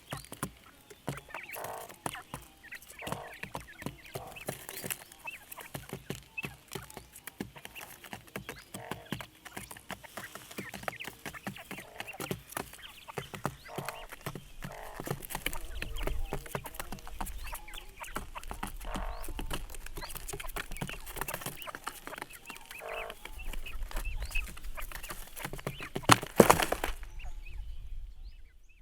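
Fowl clucking now and then over constant rustling, scratching and small clicks, with one loud knock near the end before the sound cuts off.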